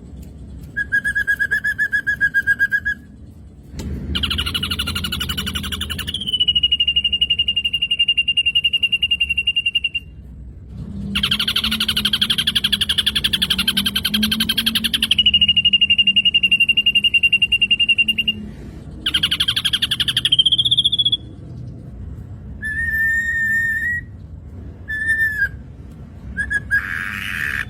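Black drongo song: long, steady whistled notes, some held for several seconds, alternating with rapid buzzy trills, then shorter slurred whistles near the end.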